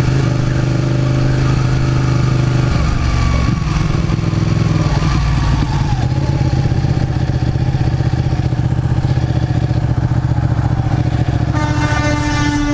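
Motorcycle engine running steadily under way, with road and wind noise. Near the end a long, steady vehicle horn blast begins.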